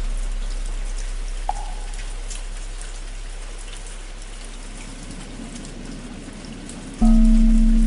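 Steady rain with drops pattering. A large bell's deep hum slowly fades, a single wooden fish (muyu) knock sounds about a second and a half in, and near the end the bell is struck again and rings out with a low hum.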